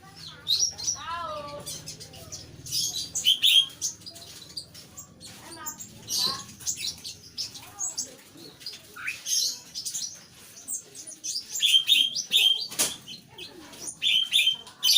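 Songbird chirping and trilling in rapid, varied short notes, with a sharp click about thirteen seconds in.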